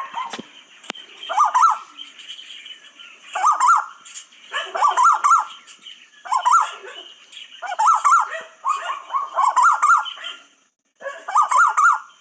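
Bird calls: short, loud warbling phrases that quaver rapidly up and down in pitch, repeated about every one to two seconds, with a high hissing band above them.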